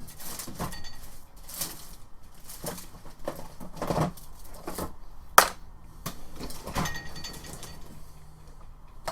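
Small tools and parts being handled on a workbench: scattered clicks, knocks and rustles, with one sharp click about five seconds in.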